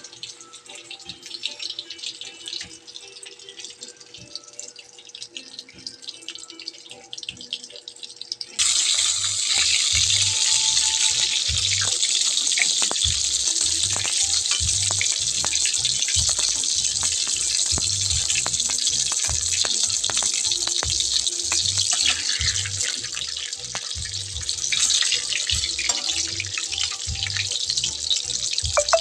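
Chicken nuggets frying in hot oil: a steady crackling sizzle full of small pops, which turns much louder and fuller about nine seconds in. Music with a steady low beat plays under it from then on.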